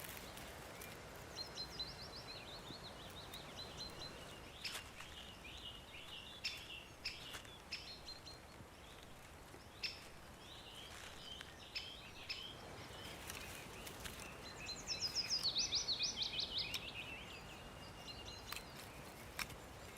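Songbirds singing faintly in woodland: scattered short chirps, and twice a song phrase of quick notes falling in pitch, the second one louder, about three quarters of the way through.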